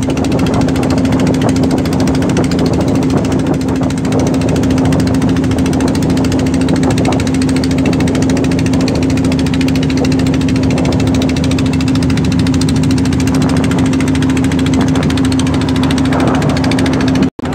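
A riverboat's engine running steadily with a hard, pulsing drone. The sound cuts out for a moment near the end.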